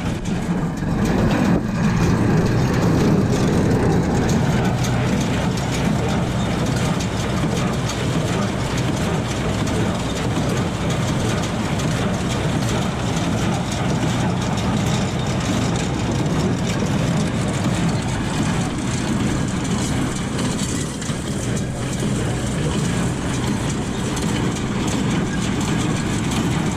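New Holland BC5060 small square baler running steadily behind its tractor, baling hay, with the tractor engine's steady drone under it.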